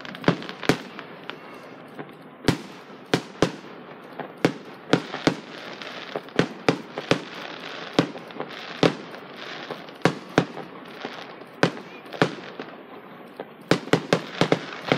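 Aerial fireworks bursting: a long run of sharp bangs at uneven intervals, sometimes several a second, over a steady hiss.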